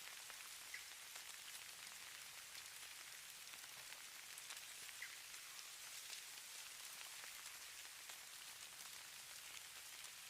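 Falling snow: a faint, steady high hiss of fine precipitation with scattered soft ticks, like light rain pattering on a surface.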